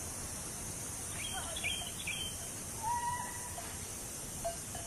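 Wild birds calling over a steady high hiss of outdoor ambience: a cluster of short chirps and whistles a little over a second in, then one held whistle about three seconds in.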